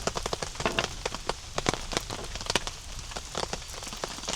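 Heavy rain falling on the camp shelter, with many sharp, irregular drop ticks over a steady hiss.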